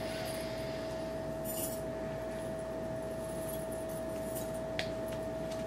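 A faint rustle and a single sharp click of cards being handled, over a steady electrical hum.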